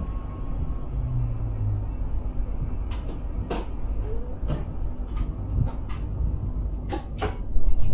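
Electric Sprinter commuter train running along the track, heard from inside the driver's cab: a steady rumble with a series of sharp clicks and knocks from the wheels over rail joints or points, the loudest knock near the end.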